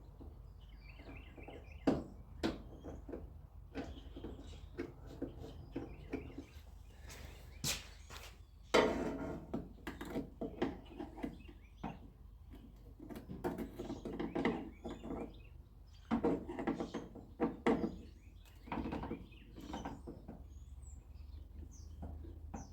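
Irregular clicks, taps and rattles of hand tools and metal door-handle hardware being worked inside a 1957 Chevrolet Bel Air door, with a few longer scraping stretches.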